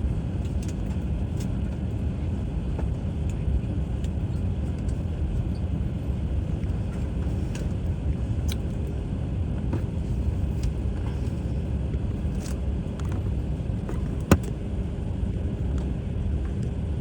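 Steady low rumble of an airliner cabin, with a faint steady hum over it and a single sharp click about fourteen seconds in.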